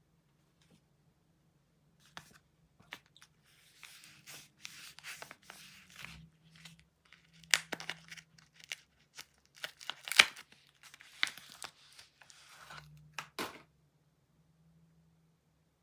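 Soap wrapping being torn open and crinkled by hand: rustling and crackling with a few sharp tearing snaps, then it stops near the end.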